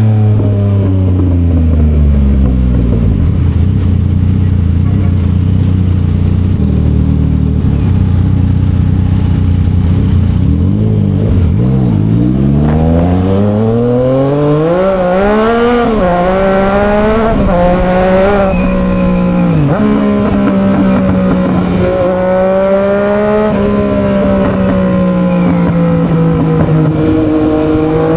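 Yamaha XSR900's inline-three engine through an SC Project exhaust, heard while riding: the revs drop and hold low for several seconds, then climb in a rising wail with a few quick dips between gears, and settle into a steady cruise.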